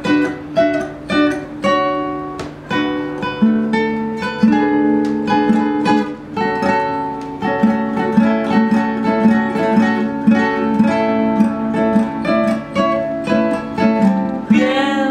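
Instrumental guitar passage: a small acoustic guitar, or a ukulele, picked and strummed note by note between sung verses of a song.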